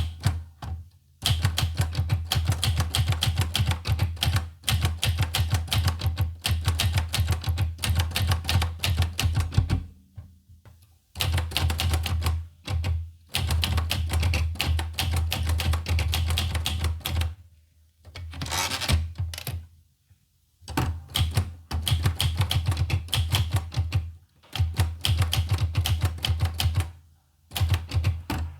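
Olivetti Lettera 25 manual typewriter typing in fast runs of keystrokes, broken by several short pauses, with a brief rasping sound a little past halfway.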